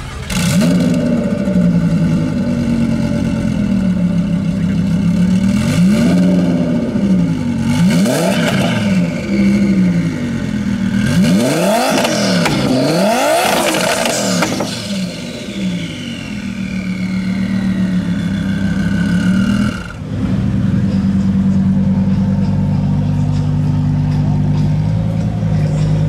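A supercar's engine idling and being revved repeatedly, its pitch climbing and dropping with each blip, the hardest revs near the middle. About twenty seconds in the sound changes abruptly to a different steady idle.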